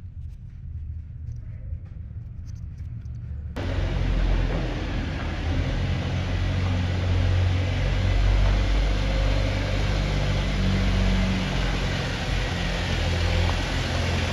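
Off-road vehicle driving slowly through a mine tunnel, its engine and tyres making a steady low rumble. About three and a half seconds in, the sound cuts suddenly to a louder, fuller rumble with hiss.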